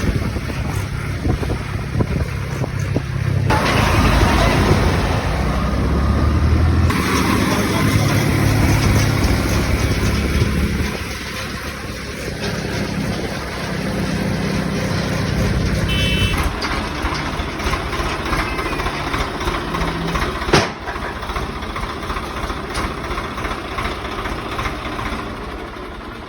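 Tractor diesel engine running, heard across several spliced clips whose engine note changes abruptly between them, with one sharp knock about twenty seconds in.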